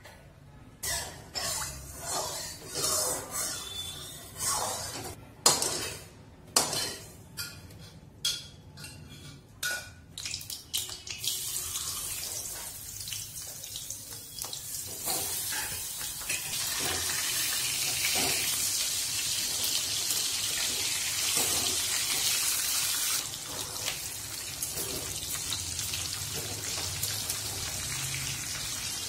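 Rohu fish heads frying in hot mustard oil in a steel wok. For the first ten seconds or so come separate sharp pops and crackles, which then settle into a steady sizzling hiss.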